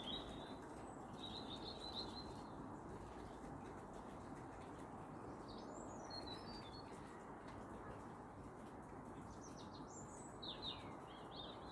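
Songbirds calling from a wood: a few short, high, twittering phrases at the start, again about a second in, around six seconds in and near the end. They sound faint over a steady low background hiss.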